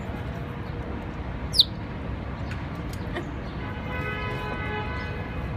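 A small bird gives a single sharp, high chirp that falls in pitch, about a second and a half in, over a steady low rumble of city background. A faint steady pitched tone comes in for a couple of seconds near the end.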